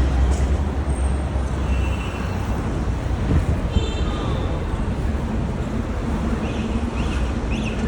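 Busy outdoor market ambience: a steady low rumble with background voices, and a few short high chirps near the end.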